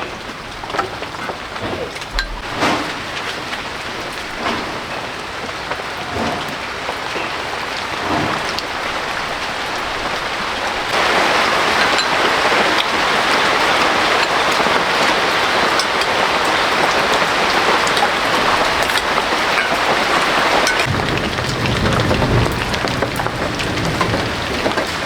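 Steady rain pattering with scattered drips, turning heavier and louder about eleven seconds in.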